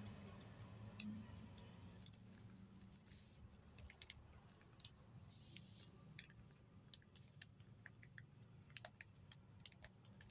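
A sheet of paper being folded and creased: faint scattered clicks and crinkles, with two short rustles about three and five and a half seconds in.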